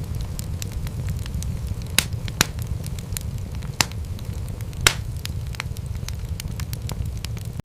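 Wood fire burning in a fireplace: a steady low rumble of flames with frequent sharp crackles and pops from the burning wood, a few louder snaps among them.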